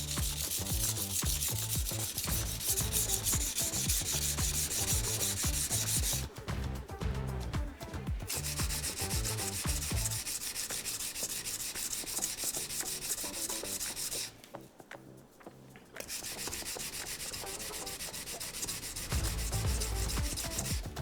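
Honyaki fugu-hiki knife being stroked back and forth on a wet whetstone, making a steady gritty scraping. The scraping stops twice for a second or two.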